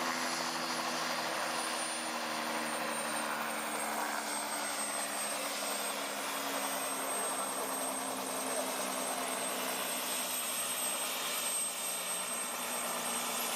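Helicopter running: a steady drone with a high, thin turbine whine over it that drifts slightly lower in pitch.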